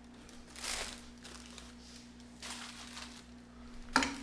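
A mash being worked with a pestle in a wooden pilón mortar: several short, soft scraping and squishing strokes and a sharp knock just before the end, over a steady low hum.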